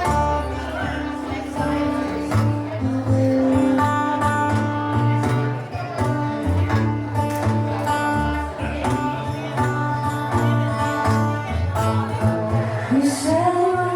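Live blues band playing an instrumental passage before the vocals come in: electric guitar leading over bass.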